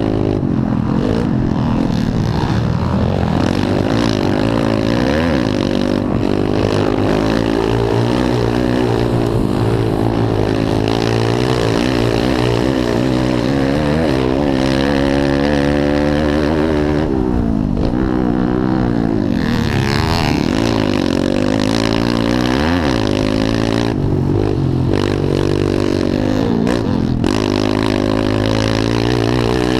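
Several pit bike engines racing on a motocross track, revving up and down repeatedly as the riders shift and work the throttle, their pitches overlapping.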